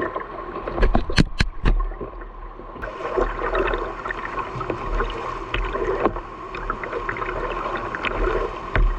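Whitewater rushing and splashing around a boat running a river rapid, with a few sharp knocks between one and two seconds in.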